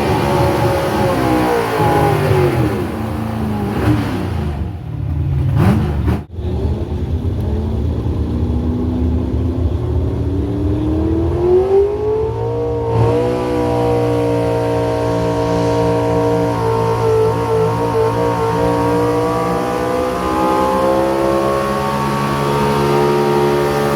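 Engine of a pulling vehicle revving hard. Its pitch falls over the first few seconds and breaks off briefly about six seconds in. It then climbs again and holds steady at high revs for the rest.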